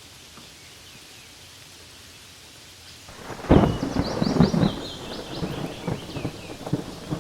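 Steady rain falling on leaves, then about halfway through a loud roll of thunder breaks in and rumbles on with crackles.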